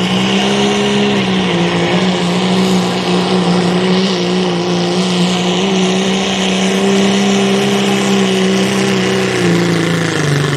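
Turbo-diesel pickup truck engine at full throttle pulling a sled. The engine note climbs just before, holds steady at high revs for about nine seconds, then winds down near the end as the throttle comes off.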